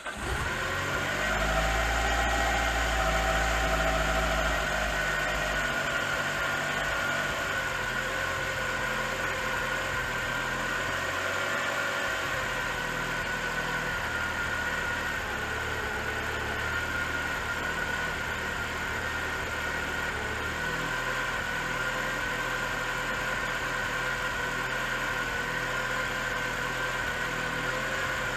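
Mitsubishi Lancer Evolution IX's rebuilt 2.4-litre four-cylinder engine idling just after starting, running higher and heavier for the first few seconds before settling. A steady high whine rides over the idle throughout, which the owner puts down to the timing belt.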